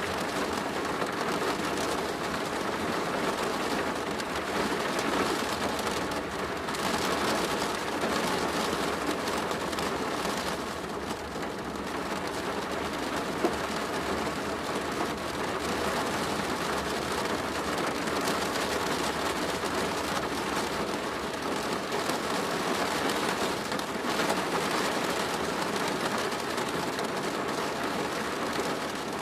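Steady rain drumming on a plastic roof, a dense even patter of drops with no let-up.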